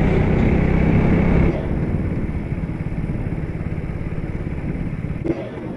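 KTM Duke's single-cylinder engine running while riding, loud at first, then dropping to a quieter, lower run about a second and a half in. A brief click sounds near the end.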